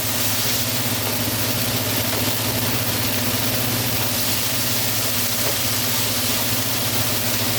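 Eggs, green peppers and mushrooms sizzling steadily in a frying pan, over a constant low hum.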